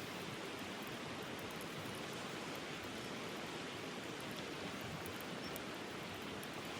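Stream water flowing, a steady even rushing.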